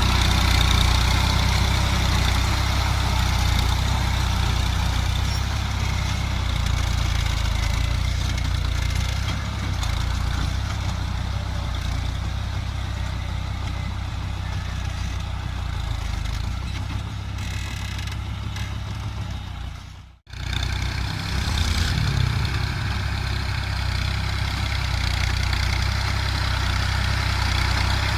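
Fiat 480 tractor's three-cylinder diesel engine running steadily under load while pulling a plough through hard ground. The sound cuts out abruptly for a moment about two-thirds of the way through, then picks up again.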